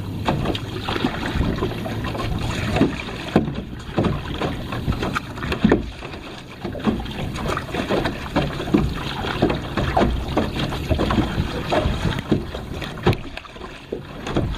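Water splashing and slapping irregularly against a kayak, with wind buffeting the microphone.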